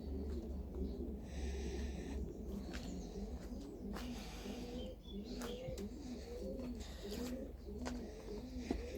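Pigeons cooing in a loft: a run of short coos that rise and fall, about two a second, with scattered clicks and rustles.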